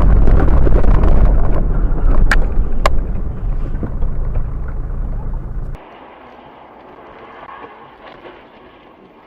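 Very loud, low rumbling noise of a moving vehicle, with two short sharp clicks partway through; it cuts off abruptly and gives way to much quieter, even road noise.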